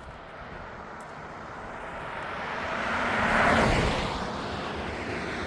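A vehicle passing by on the road: a rush of road noise that swells to its loudest about three and a half seconds in, then eases off.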